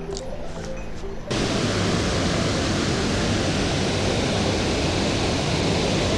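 Background music briefly, then a little over a second in it cuts abruptly to the loud, steady rush of mountain-stream water.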